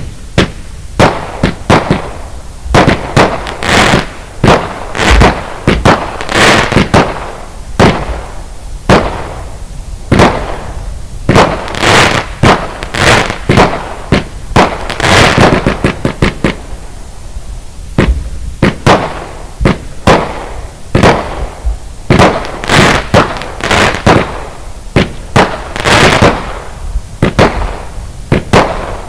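Texas Tornado firework firing a long, irregular string of loud bangs, about one to two a second, each trailing off briefly.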